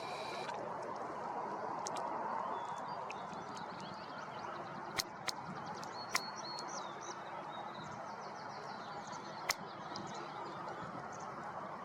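Small birds calling and twittering faintly over a steady outdoor rush of noise, with three sharp clicks about five, six and nine and a half seconds in.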